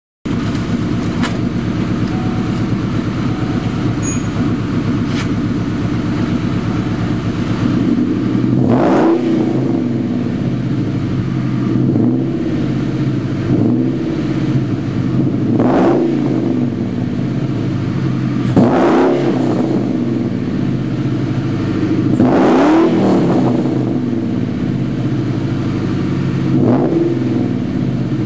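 1997 Mustang Cobra's 4.6-litre DOHC V8 idling through BBK long-tube headers and an off-road mid pipe with no catalytic converters. The throttle is blipped about six times, and each rev climbs quickly and falls back to idle.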